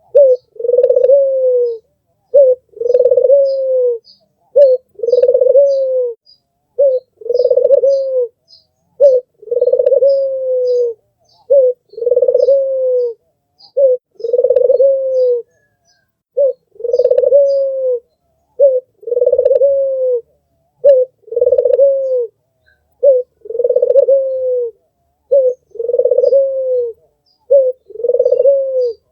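Albino puter (domestic collared dove) cooing over and over: a short note then a longer coo that falls away at its end, repeated about every two seconds. Faint high chirps of small birds sound behind it.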